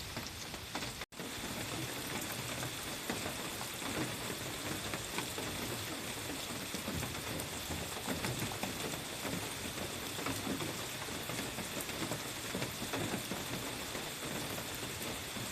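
Steady patter of light rain, an even hiss dotted with many small ticks of drops.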